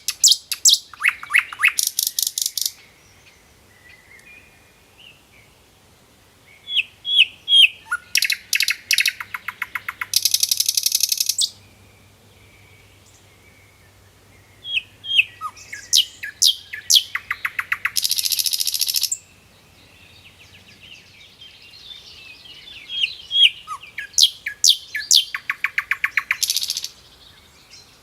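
A songbird singing, repeating the same song three times about eight seconds apart. Each song is a string of quick high chirps and sweeping notes that ends in a fast trill lasting about a second.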